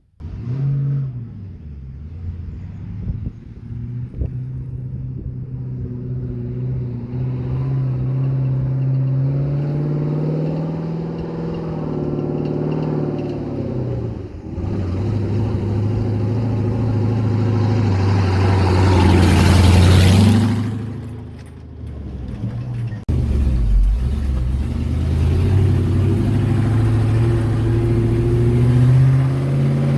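Engine of a four-wheel-drive vehicle driving, its pitch rising and falling as it speeds up and slows. Louder rushing noise swells up about two-thirds of the way through and fades, and the engine note changes suddenly shortly after.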